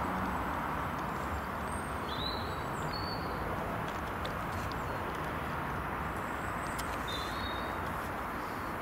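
A few brief, high bird chirps, a couple of seconds in and again near the end, over a steady background rush.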